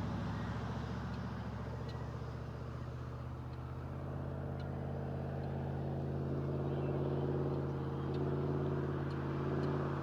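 A steady engine drone, a low hum with several tones that swells slightly in the second half.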